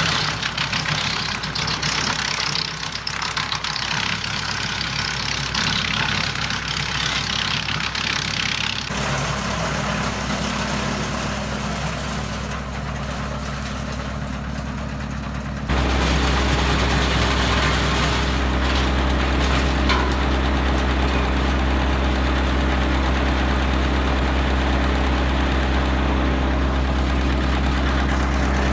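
Kioti tractor engine driving a wood chipper. For roughly the first third a loud rushing noise rides over the engine as branches go through the chipper. It then settles into an even engine drone that suddenly steps up louder a little past halfway.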